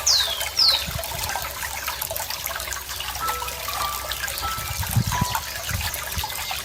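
A small stream of running water trickling and bubbling steadily. In the first second a bird gives two or three quick chirps, each sweeping down in pitch.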